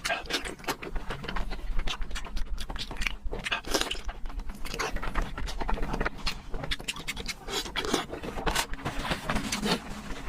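Close-up eating sounds: wet chewing and mouth smacks in quick, irregular clicks.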